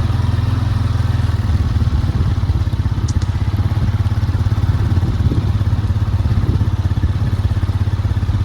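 Farm vehicle's engine running steadily while driving: a loud, low drone with a fast pulsing beat.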